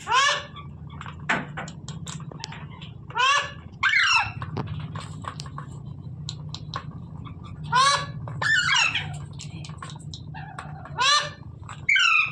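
Pet parrot giving short, loud squawking calls, one or two at a time every few seconds, over a steady low hum.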